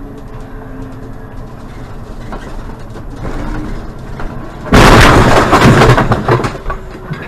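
Steady low road and engine noise, then about two-thirds through a sudden, very loud vehicle collision: a crash of impact and crunching that lasts about a second and a half before fading.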